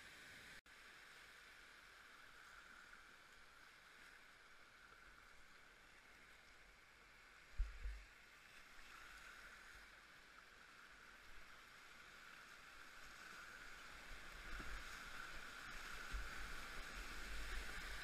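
Faint, steady hiss of river water rushing around a kayak, with low bumps on the microphone about seven seconds in and more often near the end, as the water noise grows louder.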